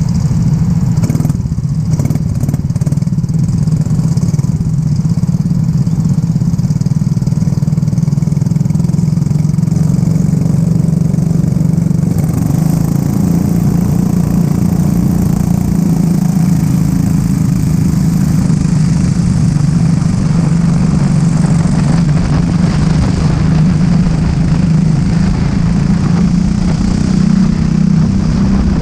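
Racing go-kart engine running steadily with a low, even drone, with a few short clicks in the first few seconds.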